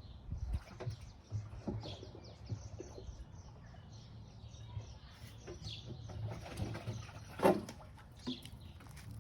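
Wild birds singing outdoors, a stream of short, high, falling chirps over a low steady hum, with a sharp knock about seven and a half seconds in.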